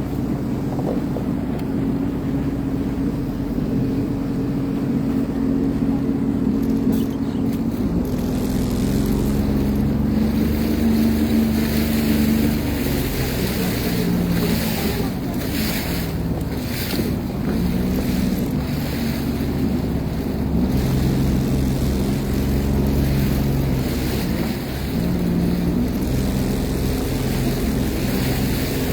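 Sea-Doo Fish Pro personal watercraft engine running under way, its pitch shifting up and down several times as the throttle changes, over the hiss of water and wind on the microphone.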